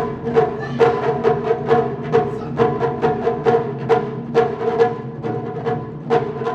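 Japanese taiko drums struck in a steady, even rhythm, about two to three strokes a second, each stroke ringing on between hits.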